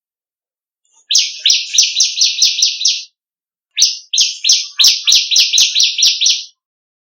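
Small songbird singing a fast series of sharp, buzzy chirps, about four a second, in two runs of two to three seconds with a short break between.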